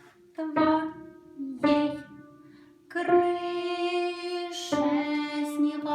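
A simple children's melody played slowly on an instrument, one note at a time, as a beginner's practice piece. There are about six notes with clear attacks. Some fade quickly, and one near the middle is held for over a second.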